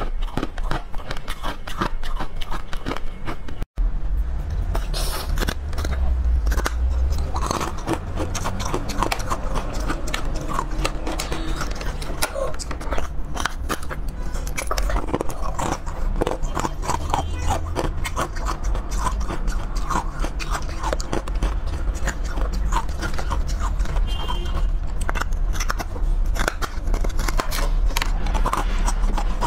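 Close-miked biting and chewing of hard frozen dessert bars: a dense run of crisp crunches and crackles with wet chewing. The sound breaks off for an instant about four seconds in.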